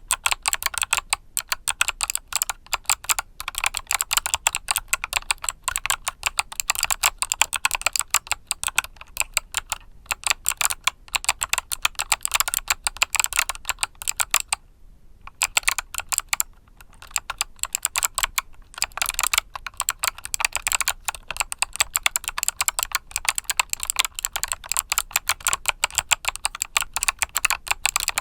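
Fast, continuous typing on a mechanical keyboard with Kailh Box Summer switches: a dense stream of crisp key clicks, with a brief pause about halfway through.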